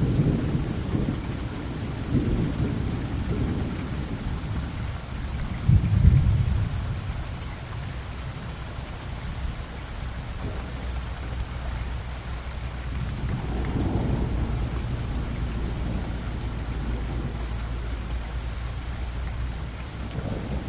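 Thunderstorm: rain falling steadily while thunder rumbles, with the loudest, sharpest clap about six seconds in and another long rolling rumble building past the middle.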